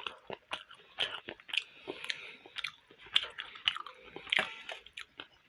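A person chewing steamed momo dumplings close to the microphone, with an irregular run of wet mouth clicks and smacks.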